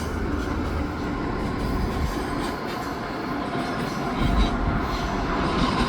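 Via Rail Siemens Venture passenger trainset rolling slowly past: a steady rumble of wheels on rail, with faint high wheel tones in places.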